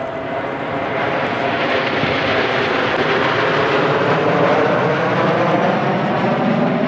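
Kawasaki T-4 jet trainers flying past, the turbofan noise growing louder about a second in and holding, with a whine that slowly drops in pitch as they pass.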